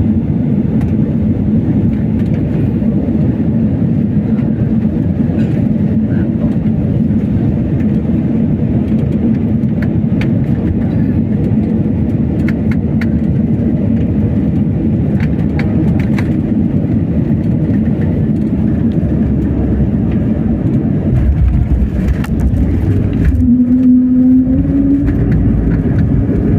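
Jet airliner cabin noise during landing: a steady, loud rush of engines and airflow. About 21 s in, a heavier low rumble sets in, and near the end an engine tone rises, which fits touchdown and the engines spooling up for reverse thrust.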